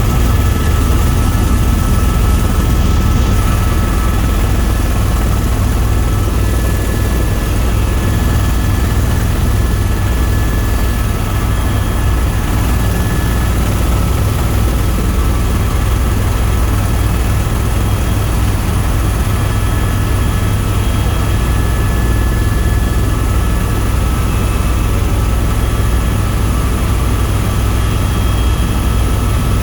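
Helicopter in steady flight: a deep, even rotor and engine drone with a faint steady high whine over it.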